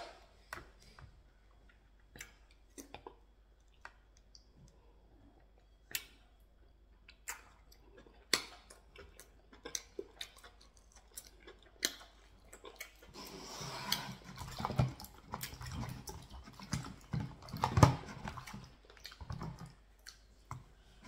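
Close-miked mouth sounds of a person eating pounded yam and ogbono soup by hand: scattered wet clicks and smacks of chewing and finger-licking, then a few seconds of denser, louder chewing over the last third.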